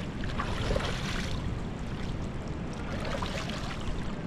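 Water sloshing and lapping around a wader in a lagoon, with a steady rumble of wind on the microphone.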